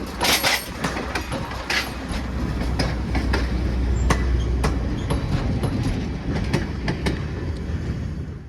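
Train rolling along the track: a steady low rumble with irregular clicks and knocks from the wheels over the rails.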